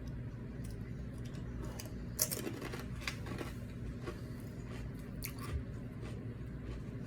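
Close-up eating sounds: chips being bitten and chewed with dip, a sharp crunch about two seconds in, then several softer crunches. A low steady hum runs underneath.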